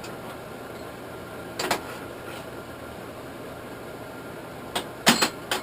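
A steady background hum with a few short, sharp knocks: one about a second and a half in and three close together near the end.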